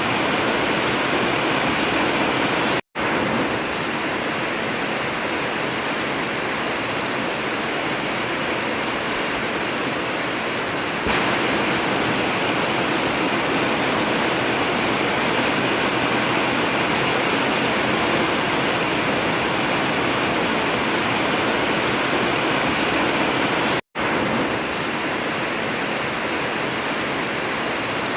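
Steady heavy rain drumming on a tin roof. It cuts out for an instant twice.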